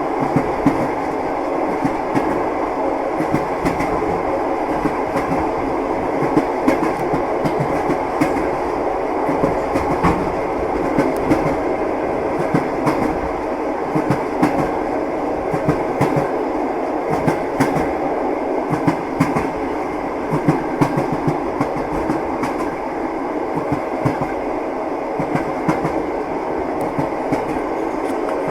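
Moving train's carriage rumbling steadily, with the wheels' clickety-clack knocking over rail joints.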